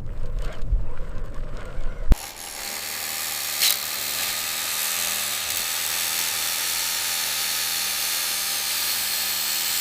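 Small electric motor and gearing of an RC construction model whirring steadily, with a single click partway through; a short low rumble precedes it and breaks off abruptly at a cut about two seconds in.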